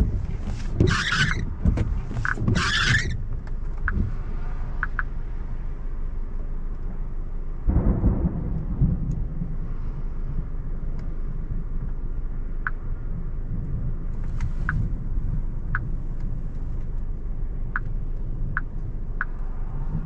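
Thunder rumbling in a thunderstorm, with one stronger deep roll about eight seconds in, over a steady low background rumble. There are brief noisy rustles in the first few seconds and a few scattered light ticks in the second half.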